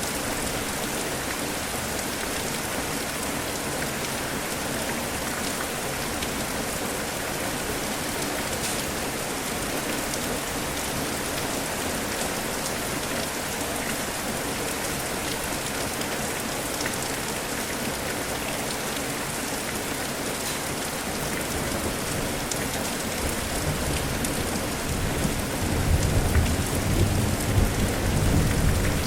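Steady heavy rain falling on surfaces, with a low rumble of thunder swelling in over the last few seconds.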